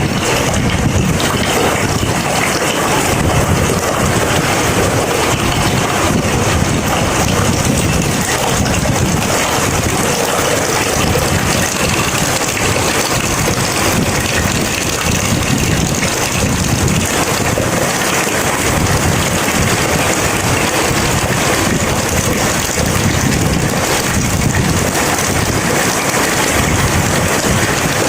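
Steady rain falling in a storm, with a low, uneven rumble of wind buffeting the microphone underneath.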